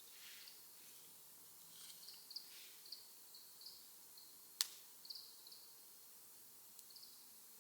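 A quiet wood fire in a small Firebox stove, with one sharp crackle-pop a little past the middle. Faint, short high chirps come and go throughout.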